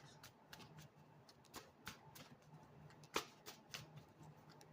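Near silence: room tone with a faint steady low hum and scattered faint clicks, the clearest a little past three seconds in.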